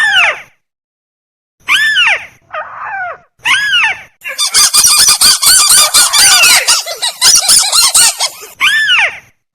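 Tikusan (crake) calls of a bird-lure recording: single arched notes that rise and fall, then from about four seconds a dense, rapid run of overlapping calls lasting about four seconds, and one more single call near the end.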